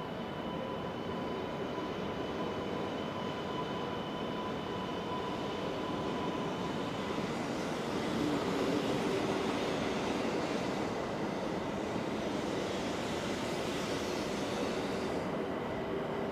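Joetsu Shinkansen train running through the station platform: a steady electric hum, joined about seven seconds in by a rushing hiss that cuts off near the end.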